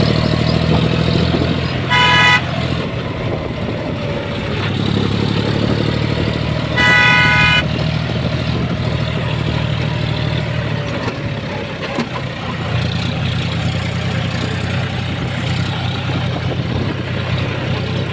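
John Deere 4WD tractor's diesel engine running steadily while pulling a load of bamboo. A horn sounds twice over it: a short toot about two seconds in and a longer blast about seven seconds in.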